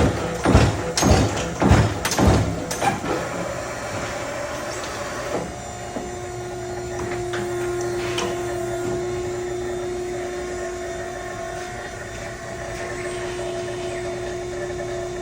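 Euromac CNC turret punch striking sheet metal in a quick, even series of punch hits about every 0.6 s, which stops about three seconds in. The machine then keeps running with a steady hum, and a steady tone sets in after about five seconds.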